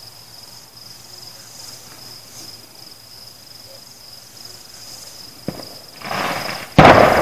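Crickets chirping in a steady high trill. About five and a half seconds in there is a sharp crack, then a second of rushing noise, then a loud firework bang that dies away slowly.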